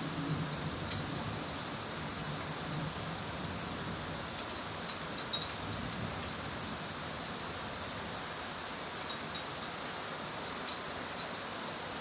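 Heavy rain falling steadily, with a low rumble of thunder dying away in the first few seconds and a few sharp drip ticks scattered through.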